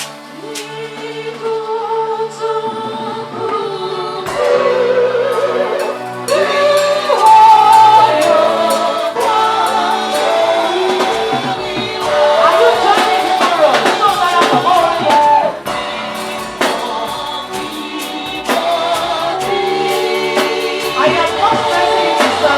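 Gospel music from a praise band: several voices singing together over the band's instruments and steady percussion.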